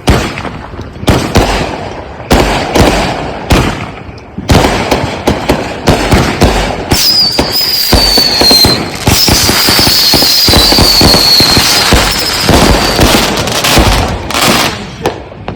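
Consumer aerial fireworks firing. First comes a string of sharp booms about a second apart, then a dense rapid crackle with two whistles falling in pitch partway through, and a few more booms near the end.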